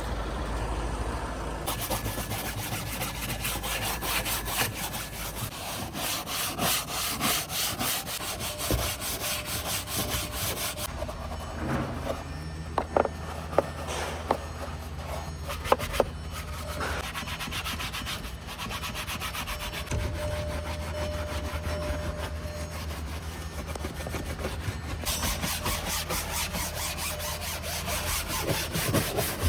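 Rhythmic scrubbing and rubbing strokes as foam cleaner is worked into a car's interior surfaces by hand, with a few sharp knocks near the middle.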